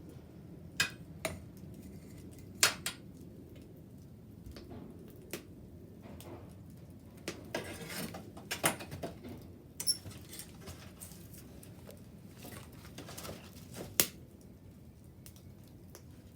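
Wood bonfire crackling, with scattered sharp pops and snaps over a steady low rush of burning; about five pops stand out loudest, and the crackle thickens for a second or two twice in the middle.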